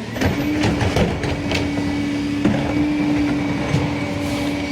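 Garbage truck working down the street: a steady mechanical whine, rising slightly, with scattered clanks and knocks.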